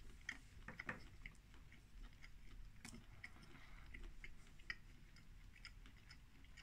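A person chewing a mouthful of vegan bacon sandwich. It is faint, with scattered small mouth clicks.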